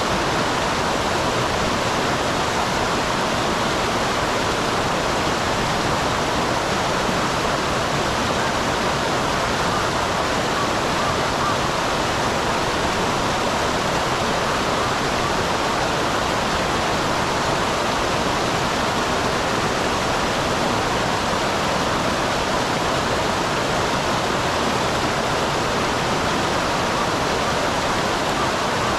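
Small waterfall on a mountain stream: water pouring and splashing in a steady, even rush.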